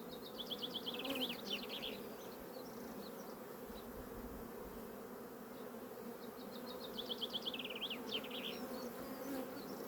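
Honey bees buzzing around an opened hive, a steady hum. A bird sings a short trilled phrase of quick falling notes twice, about a second in and again about seven seconds in.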